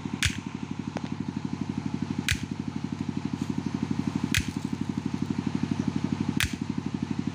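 Single-cylinder S1115 diesel engine of a generator set running steadily with a fast, even chugging, plus a sharp click about every two seconds.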